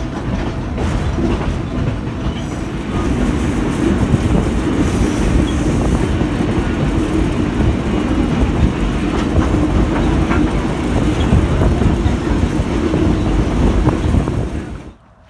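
Railroad passenger car rolling along the track: a loud, steady rumble with scattered clicks of the wheels. It cuts off abruptly near the end.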